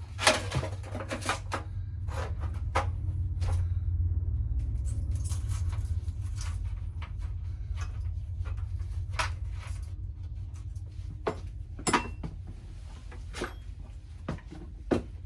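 Scattered clicks and metallic knocks of sheet-metal parts being handled while a security bracket is fitted on a gas water heater, over a steady low hum.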